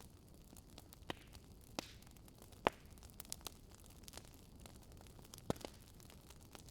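Wood fire crackling softly, with irregular sharp pops over a low hiss; the loudest pop comes a little before the middle.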